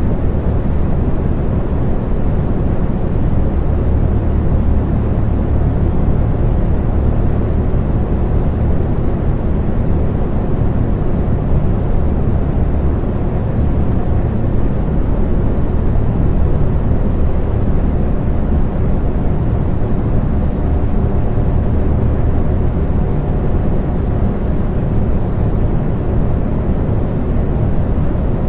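Electric fan running steadily: a constant low whooshing noise with a faint hum in it.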